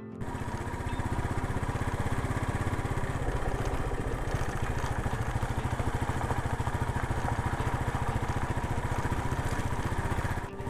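Motorcycle engine running steadily, its firing pulses even throughout.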